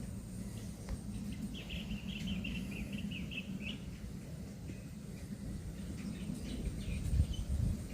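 A bird calling a quick run of short, high notes for about two seconds, over a steady low background rumble.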